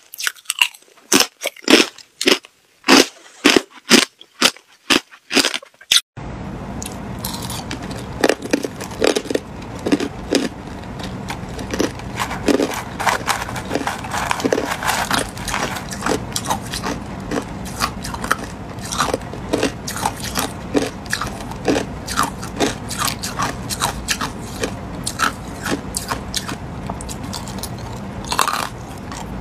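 Ice being bitten and chewed close to the microphone: loud, separate cracks of bites into hard ice for about the first six seconds, then an abrupt change to rapid, continuous crunching over a steady hiss.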